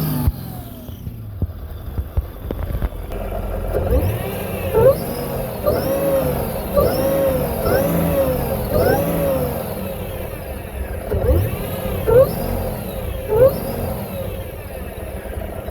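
Mercedes M113K supercharged V8 idling, then revved in a string of quick throttle blips from about four seconds in, each rising and falling back within a second.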